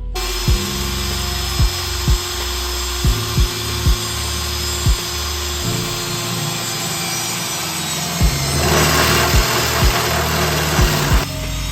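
A power tool runs steadily against the metal of a B6-type folding barbecue stove, cutting away material to lighten it. It gets louder about two-thirds of the way in, then drops back near the end. Background music with a regular beat plays underneath.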